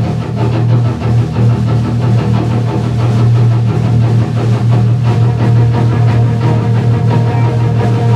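Pop-punk rock band playing loud with electric guitars, a song in full swing right after its start.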